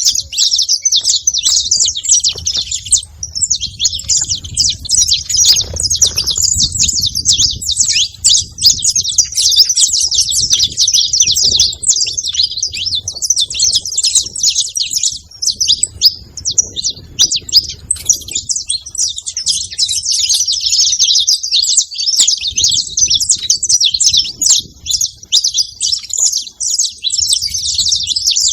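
Saffron finch (canário-da-terra) chirping rapidly and without pause, a dense high-pitched chatter of short notes, with a faint low rumble underneath.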